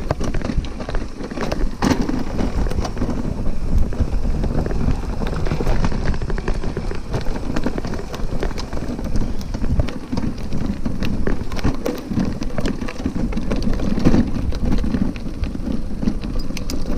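Bicycle rattling and bumping over a rough dirt nature trail: a constant clatter of small knocks and clicks over a low rumble from the tyres and frame.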